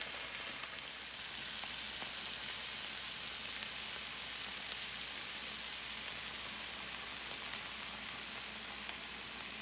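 Black pepper beef and bell pepper stir-fry sizzling steadily in a stainless steel pan, with a few faint pops.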